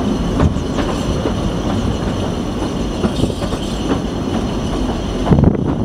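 Narrow-gauge heritage railway carriage running along the line, heard from on board: a steady, loud rumble and rattle of the wheels on the track.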